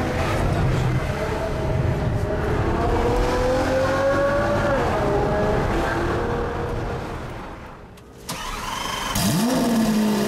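A car's engine heard from inside the cabin while driving, its pitch climbing under acceleration and dropping at gear changes, before fading out. Near the end a Lamborghini Aventador's V12 starts with a sharp rising flare that falls back slowly toward idle.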